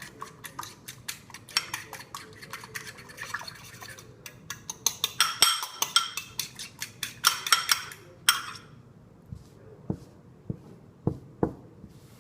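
An egg being beaten with a utensil in a dog's bowl: quick, rapid clinking and scraping strokes that stop after about eight seconds, followed by a few scattered light knocks.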